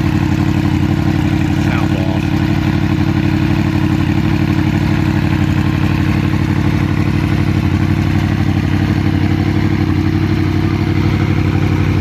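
2014 Yamaha YZF-R1's crossplane inline-four idling steadily through a Coffman's aftermarket exhaust, a loud, even, low exhaust note with no revs.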